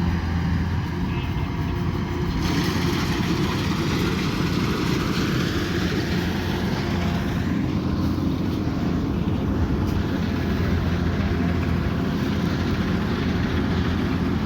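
Kubota combine harvester running steadily, a constant diesel engine hum with mechanical noise; a wider rushing noise joins in about two and a half seconds in.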